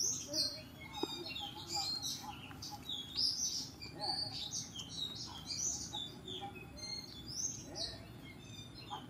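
Songbirds chirping: a busy run of short, high, varied chirps and twitters, one after another with no break.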